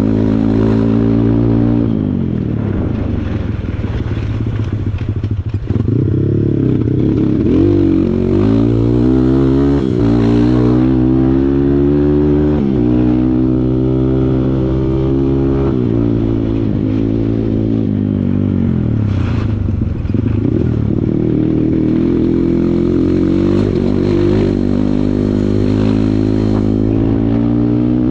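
Kawasaki KLX140 dirt bike's single-cylinder four-stroke engine being ridden hard, its revs rising and dropping again and again with the throttle and gear changes.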